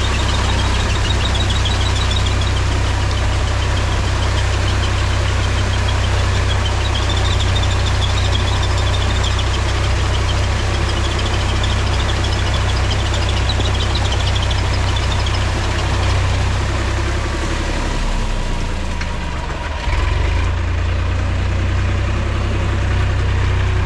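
Mahindra tractor's diesel engine running steadily with a deep, constant hum. The engine note dips briefly about 18 seconds in and picks up again about two seconds later.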